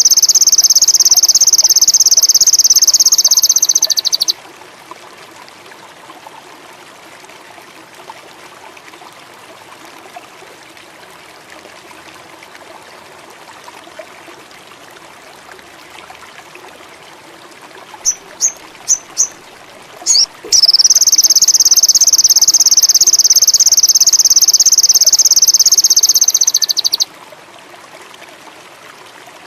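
Sogon indigo bird singing a loud, high, rapid, even trill that breaks off about four seconds in. Then four short high chirps, and a second long trill of about six seconds. Under the song and in the gaps there is a faint steady background of trickling water and insects.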